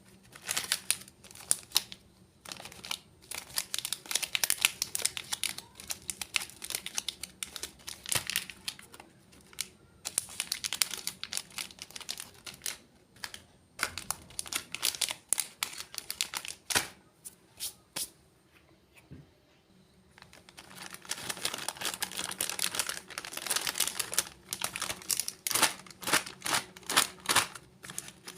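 Crisp crackling and crunching from crunchy snacks and their plastic packets, in three long bursts of rapid sharp crackles with short pauses between.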